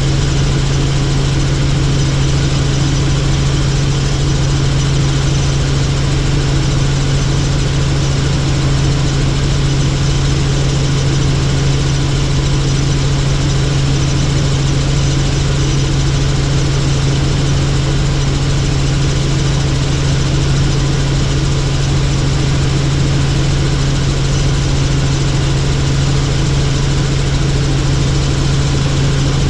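Helicopter in flight: a loud, steady engine and rotor drone with a strong low hum that does not change.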